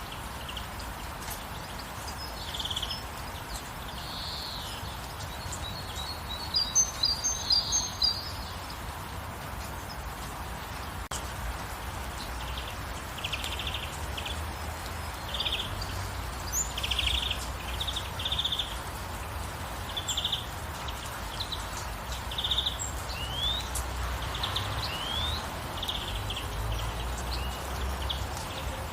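Steady rain hiss under birdsong: short high chirps, a loud quick run of them about a quarter of the way in, then repeated short chirp phrases with a few rising notes later on.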